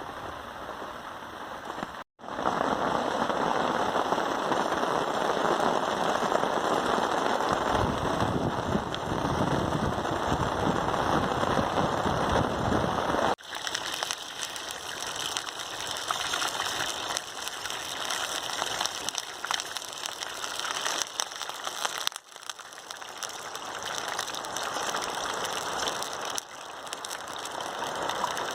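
Steady rain, with no tones or voices. After a brief dropout near the start it is heavy and dense for about ten seconds, then lighter and crackly, with sudden changes in loudness where the shots change.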